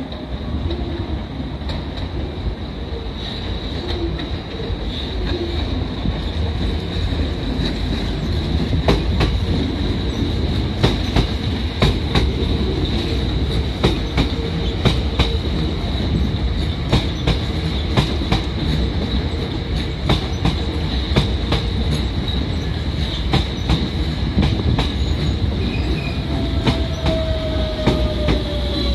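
Electric train running past, its wheels clicking over the rail joints faster and denser as it goes, over a steady rumble and a high steady whine. Near the end a motor whine falls in pitch.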